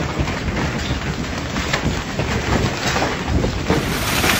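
Hailstorm: hailstones pelting a swimming pool and the paving around it, a dense hiss full of small sharp impacts, with wind buffeting the microphone.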